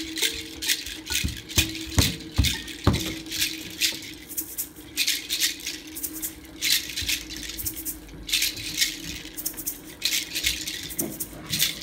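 A hand rattle or shaker being shaken in short, repeated bursts, over a steady low hum, with a few sharp knocks in the first three seconds.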